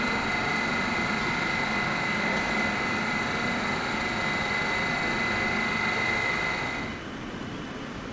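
Electric train running with a steady hum and a constant high whine from its electrical equipment. About seven seconds in the whine stops and the sound drops to a lower level.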